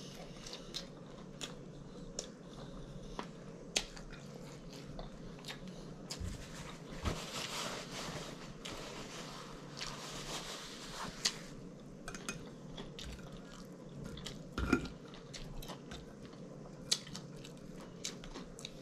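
Close-miked chewing of a mouthful of catfish sandwich, quiet, with frequent wet mouth clicks and lip smacks. In the middle, a paper napkin rustles as it wipes the mouth for a few seconds.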